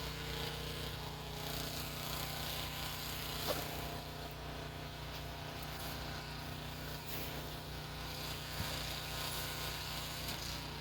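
A steady low motor hum with a couple of faint brief knocks.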